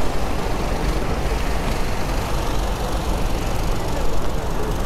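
Passenger train running along the track: a steady noise of wheels and carriage, heaviest in the low end.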